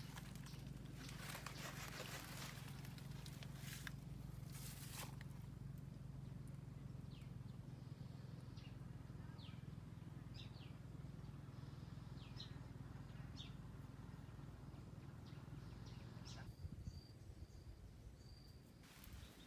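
Small birds chirping in short, quick downward notes, with rustling in the first few seconds, a faint steady low hum throughout, and a held high whistled note near the end.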